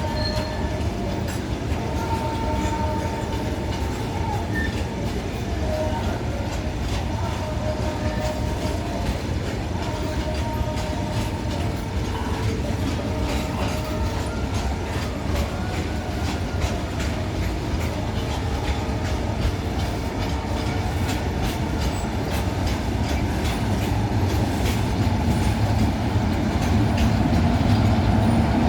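Freight train wagons rolling past, their wheels clicking steadily over the rail joints, with brief thin wheel squeals. The running grows louder near the end.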